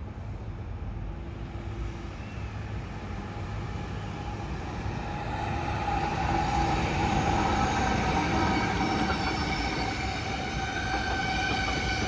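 Electric train approaching and growing louder. About halfway through, several steady high tones come in over the rumble.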